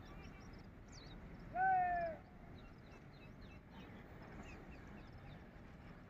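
A bird gives one harsh, drawn-out call about a second and a half in, over faint high chirps from small birds and steady outdoor background noise.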